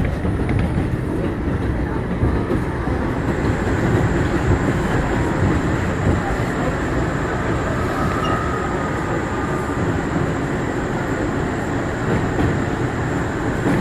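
Bombardier R179 subway car running between stations, heard from inside the car: a steady rumble of wheels on rail. A faint high whine comes in about three seconds in.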